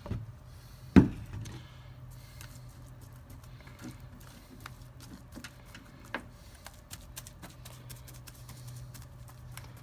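Small work noises of resin being applied by hand: one sharp knock about a second in, then scattered light taps and clicks, over a steady low hum.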